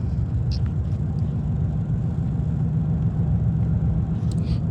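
Steady low vehicle rumble with no change in pitch or level.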